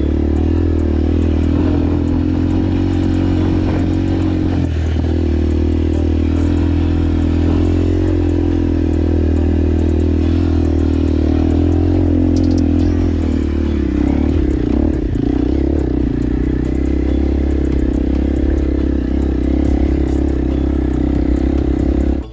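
Motorcycle engine running steadily while riding, a constant low drone. It cuts off abruptly at the end.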